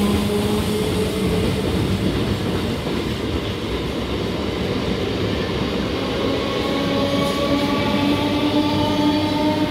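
Electric multiple-unit suburban local train rolling past at close range as it pulls out, with a steady rumble of wheels on rail. About six seconds in, a motor whine starts climbing in pitch as the train gathers speed.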